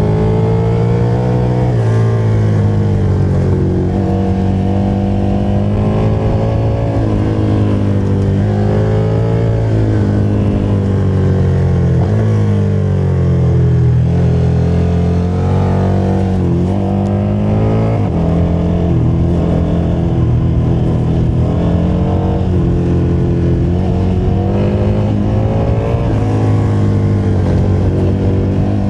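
KTM motorcycle engine pulling under load, its revs climbing and dropping again and again, with sudden steps as it changes gear.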